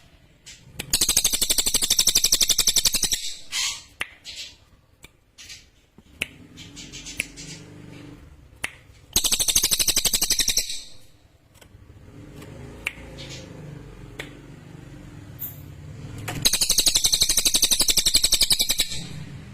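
Cililin songbird singing: three long, very fast trills of sharp high notes, each about two seconds, near the start, in the middle and near the end, with short single chirps between them.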